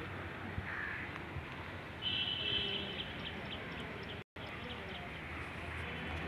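Outdoor background noise with a bird calling: a short call about a second in, then a longer, steady high call from about two to three and a half seconds in. The sound cuts out for a moment just after four seconds.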